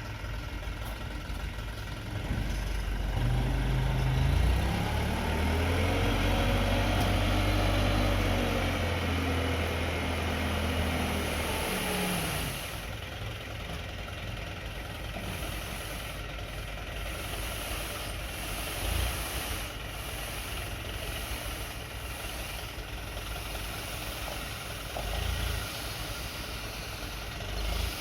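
Dump truck engine working hard, loud for about ten seconds with its pitch rising and then falling, then dropping to a quieter steady running sound with a few short low thumps.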